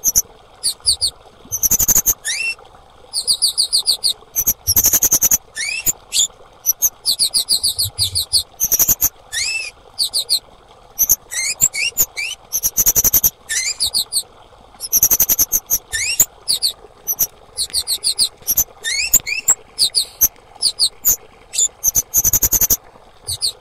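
Female kemade bird calling: bursts of rapid, very high-pitched trilled chirps, some starting with short upward-sweeping notes, repeated again and again with brief pauses between them. A faint steady hiss lies underneath.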